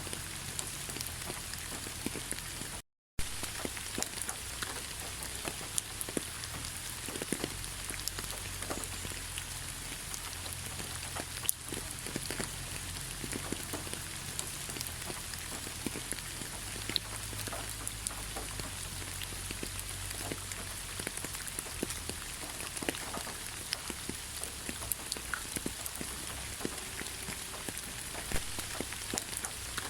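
Steady rain falling in a pine forest: an even hiss of rainfall with many separate drop hits ticking through it. The sound cuts out completely for a fraction of a second about three seconds in.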